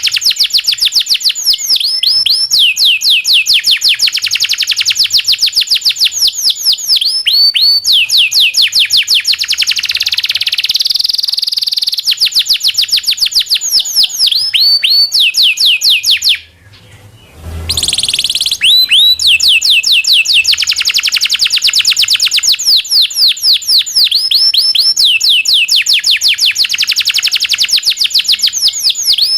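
Domestic canary singing long rolling trills: fast runs of repeated high, falling notes strung into long phrases, with a brief break about two-thirds of the way through.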